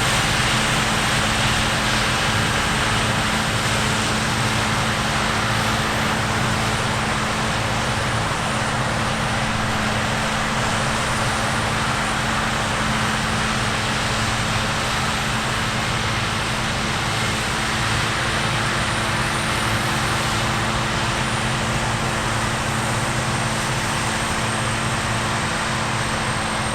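Heavy harvest machinery running steadily: a constant diesel drone with a steady low hum and no change in pace.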